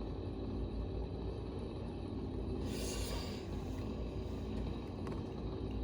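Low, steady rumble of a distant engine running, with a brief hiss about three seconds in.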